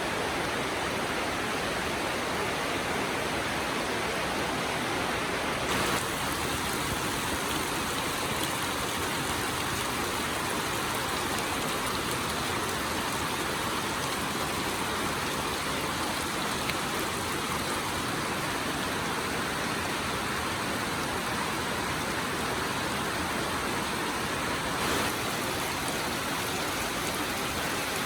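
Steady rainfall, an even continuous hiss of rain. The texture shifts slightly about six seconds in and again near the end.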